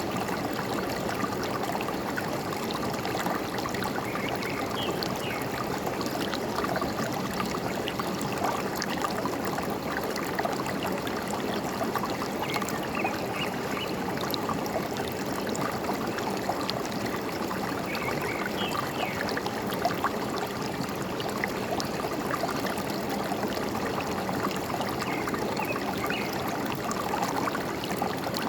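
A forest stream flowing and trickling steadily, with a few faint bird chirps now and then.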